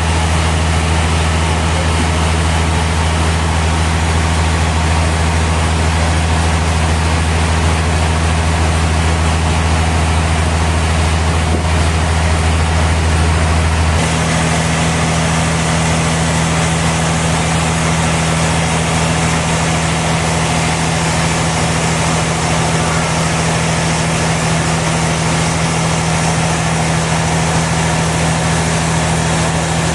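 Sawmill machinery running steadily with a loud low hum over a noisy mechanical wash. About halfway through, the hum shifts abruptly to a slightly higher, thinner pitch.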